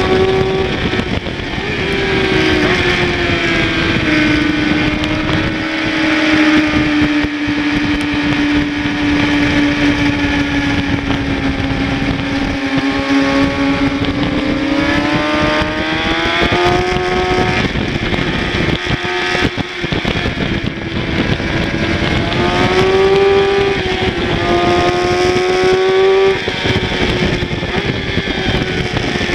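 Kawasaki ZX-6R's inline-four sport-bike engine with a slip-on exhaust, running hard at high revs on track, its pitch slowly sagging through a long stretch and then climbing again, with several quick gear changes past the middle. Heavy wind rush over the onboard microphone runs under it.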